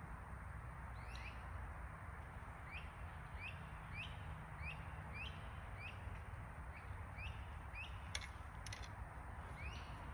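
A bird calling a short, rising chirp over and over, about one to two times a second, over a steady outdoor hiss; two sharp clicks sound near the end.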